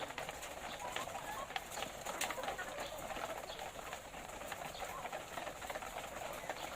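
Flock of caged laying hens clucking and murmuring steadily, many calls overlapping, with scattered sharp clicks.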